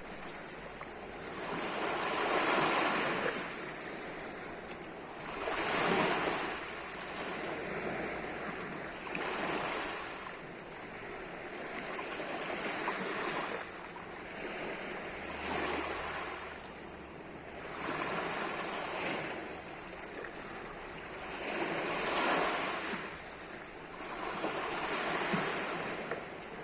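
Small sea waves washing onto the shore, rising and falling in swells of noise about every three to four seconds.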